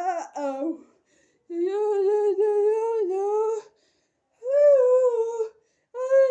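A high-pitched voice humming or crooning long wordless notes, three held tones with short pauses between them, sounding close in a small room.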